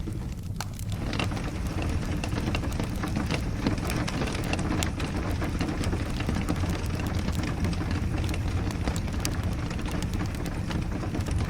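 Steady rain with a crackling wood fire: an even low rumble and hiss, thickening about a second in, with frequent sharp pops and crackles.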